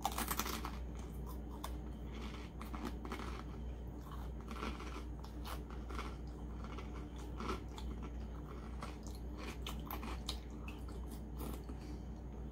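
A person chewing and biting food close to the microphone: many small, irregular wet mouth clicks and crunches.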